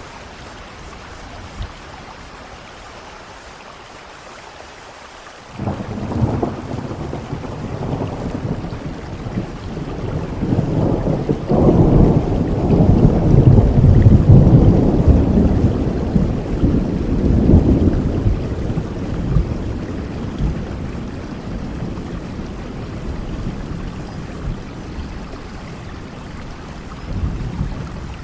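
Steady rain with a long peal of thunder: it breaks in suddenly about five seconds in, grows to its loudest around the middle, then rumbles away slowly.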